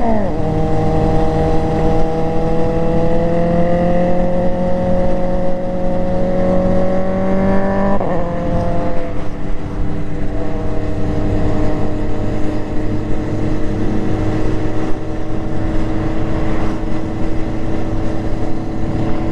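Motorcycle engine running under way, its pitch climbing slowly for about eight seconds, then dropping sharply and holding steady.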